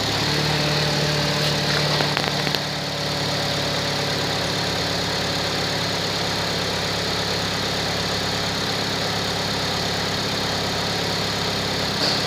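Chevrolet HHR four-cylinder engine idling steadily, the note easing slightly about three seconds in and then holding even.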